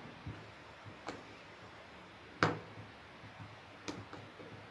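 Sharp clicks and taps of a screwdriver and a small screw on a plastic hair dryer casing while the screw is worked out, about four clicks, the loudest about two and a half seconds in.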